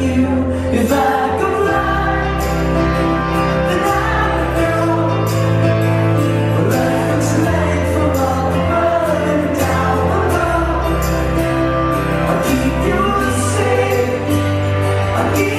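Live pop-rock band playing with a male lead singer: bass notes change every second or two under a sung melody, with steady cymbal strokes on top.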